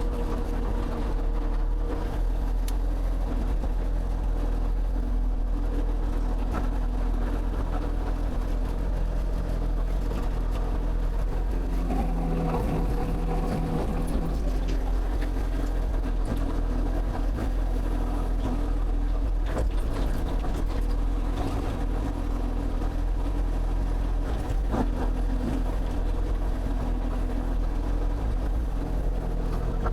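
Excavator's diesel engine running steadily under work, with a brief change in tone about twelve seconds in and a few knocks.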